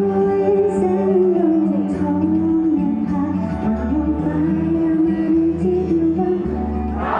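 Female vocalist singing a pop ballad over a backing track, the melody moving in long held notes above a steady bass line; the accompaniment grows fuller and brighter near the end.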